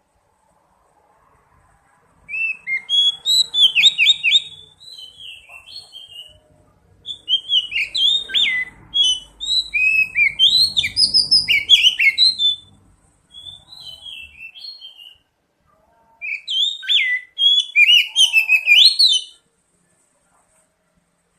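Oriental magpie-robin (kacer) singing in three bouts of quick, varied whistled notes that sweep up and down, each bout separated by a short pause.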